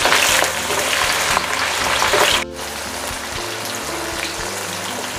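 Shallots, garlic and chillies sizzling in hot oil in a wok as they are stirred. The sizzle drops suddenly to a softer level about halfway through, with background music underneath.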